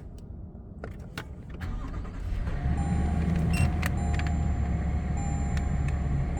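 A 2022 Toyota Tundra's 3.5-litre twin-turbo V6 starting by push button about two seconds in, then settling into a steady idle. A thin electronic dashboard chime tone sounds on and off over the idle.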